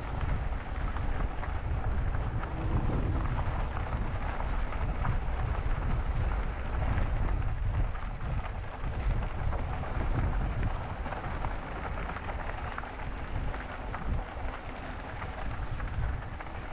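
Wind buffeting the microphone of a moving e-bike as a steady low rumble, with tyre noise rolling over a dirt and gravel trail.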